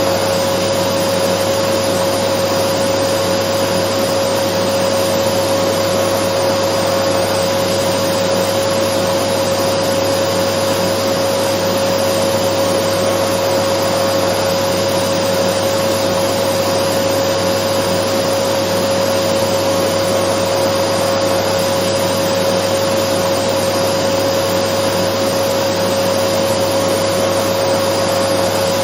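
Dyson vacuum cleaner running steadily as white noise: an even rushing hiss with a constant hum, unchanging throughout.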